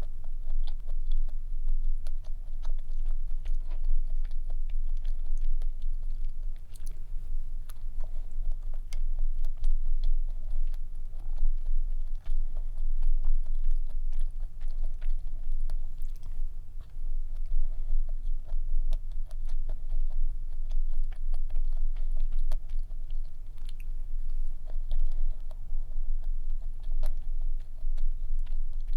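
Close-miked chewing and biting of stollen, with soft irregular mouth clicks over a steady low hum.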